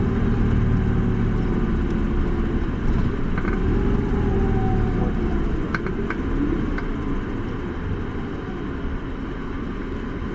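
Isuzu Erga city bus heard from inside the cabin, its diesel engine and road noise running steadily. Around the middle the engine pitch glides up and down, and over the second half it eases off and gets a little quieter, with a few small rattles and clicks.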